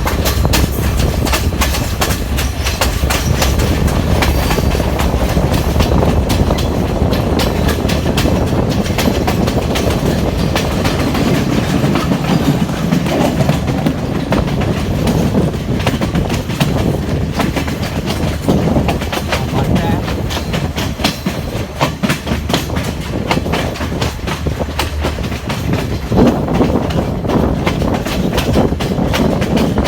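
Sri Lanka Railways Class S14 diesel multiple unit running along the line, its wheels clicking over the rail joints over a steady low rumble that eases a little about halfway through.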